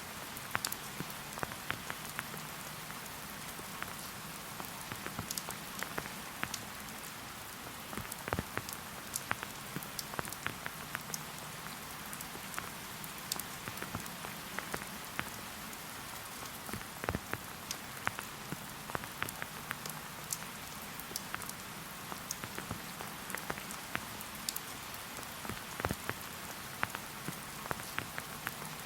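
Rain falling steadily: an even hiss with frequent sharp ticks of individual drops landing close by.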